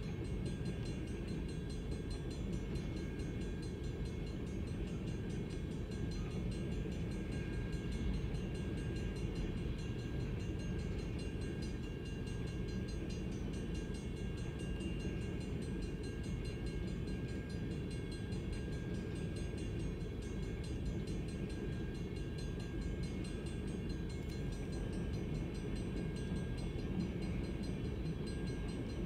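Freight train of tank cars rolling steadily past a grade crossing, an even, continuous low rumble heard from inside a car's cabin.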